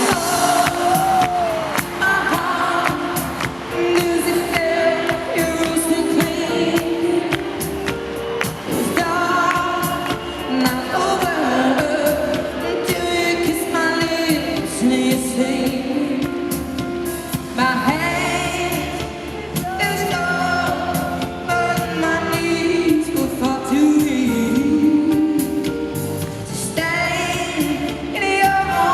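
Live pop concert music: a woman singing lead over a full band accompaniment.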